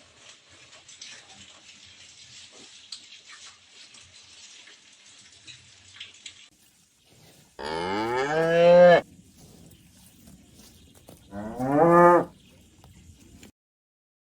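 A cow mooing twice: a long call about halfway through, then a shorter one a few seconds later. A faint hiss comes before the calls.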